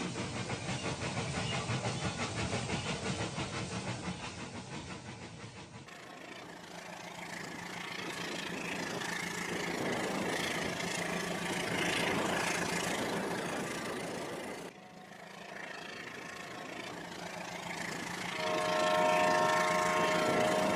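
Battery-powered Rail King toy train running on its plastic track, a small motor whirring with rapid rhythmic clicking for the first few seconds. The running noise goes on through a couple of abrupt cuts, and near the end a steady electronic horn tone from the toy sounds over it.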